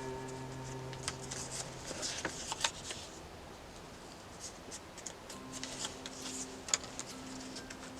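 Paper rustling and the scratchy strokes and small clicks of hands working on a paper journal page, with faint steady low tones underneath that drop away in the middle and return about five seconds in.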